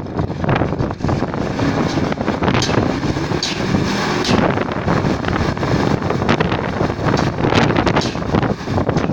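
Wind buffeting the microphone over a steady rumble of machinery during ship cargo discharge, with scattered knocks and clanks throughout.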